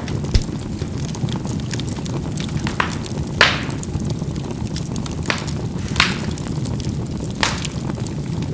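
Charcoal burning in a fireplace: a steady low rumble of the fire with scattered sharp pops as the coals crackle, the loudest about three and a half seconds in, and a brief low thump near the start.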